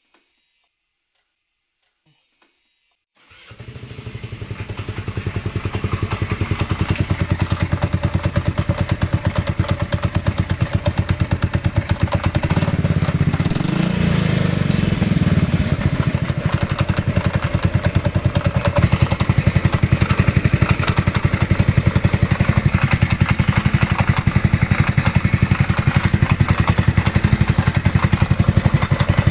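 150cc 157QMJ four-stroke scooter engine starting about three seconds in and then running steadily with a fast, even pulsing beat. The engine has a knock, which is the fault being shown.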